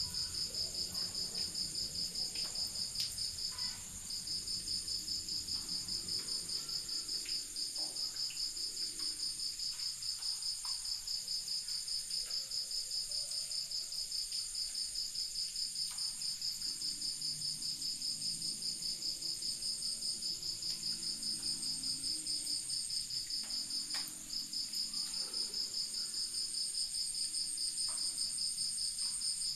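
Crickets trilling steadily in a rapid, even pulse, with two brief breaks about 4 and 24 seconds in.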